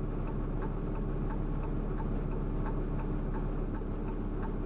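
Turn-signal flasher of a diesel Dodge Ram 3500 ticking evenly, about three clicks a second, over the low steady idle of its Cummins inline-six.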